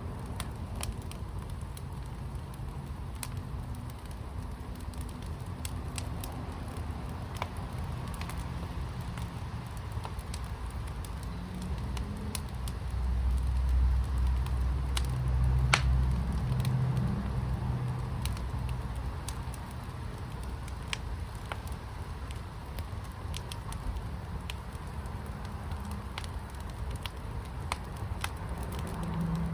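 Fire in a firepit crackling, with scattered sharp pops over a low steady background. A low rumble swells and fades midway.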